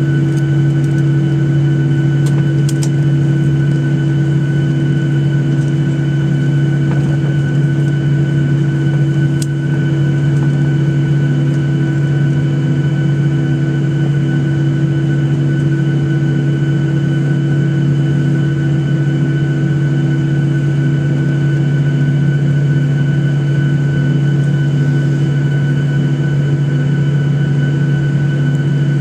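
Boeing 737-800 cabin noise with the CFM56 engines at idle: a loud, steady low hum with a steady higher whine over it. A few faint ticks come through early on the window.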